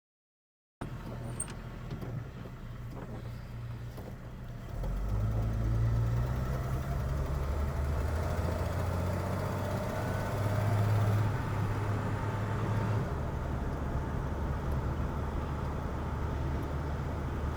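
A 1951 Chevrolet's 292 inline six-cylinder engine running as the car drives along. The engine note gets louder about five seconds in and eases back near thirteen seconds.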